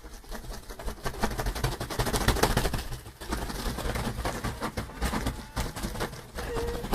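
A flock of birds flapping their wings in a dense, rapid clatter, with a low rumble underneath.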